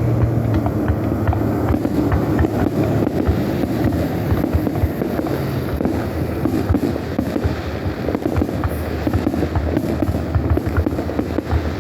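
Aerial fireworks going off in a dense, continuous barrage: a rapid run of cracks and bangs over a steady low rumble.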